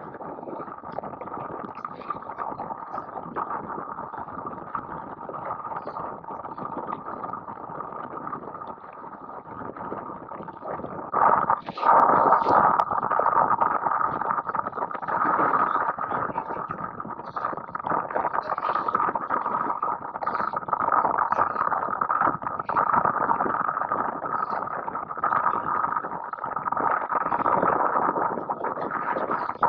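Wind and water rushing past during a wingfoil ride in strong wind: a steady hissing rush that gets louder about eleven seconds in.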